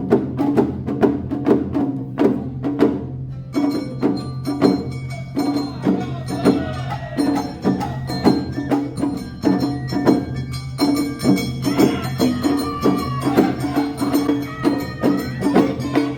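Awa Odori festival music, played live: a steady, quick beat of drums and clanging percussion under a melody. The sound changes abruptly about three and a half seconds in.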